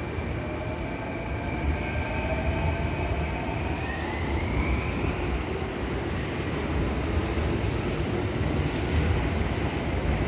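Kintetsu 9020 series electric train running past, a steady rumble with a motor whine that rises in pitch about four seconds in.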